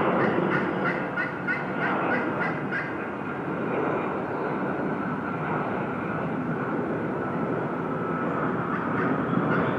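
Wild turkey gobbler gobbling: rapid rattling runs of notes in the first few seconds and again near the end, over a steady rushing background noise.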